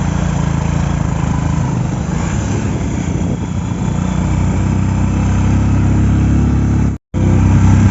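Motorcycle engine running steadily while riding, a low drone with noise over it; the sound cuts out for a moment about seven seconds in.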